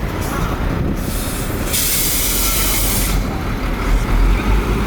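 Heavy diesel earthmoving machinery running with a steady low rumble. A brief hiss comes just after the start, and a stronger burst of released air hisses for about a second and a half midway, like a truck's air brakes.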